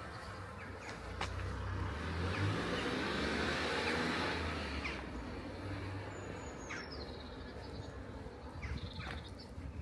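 A car passing on the street, its engine and tyre noise swelling for a few seconds and then fading. A bird chirps briefly afterwards.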